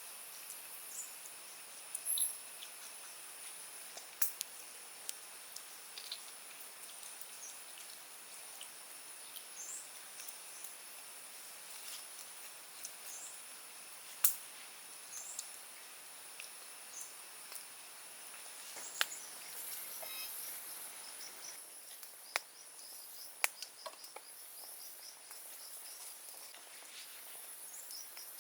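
Forest ambience: a steady high-pitched drone of insects, with scattered short chirps and a fast run of repeated chirps near the end. Occasional sharp clicks stand out above it.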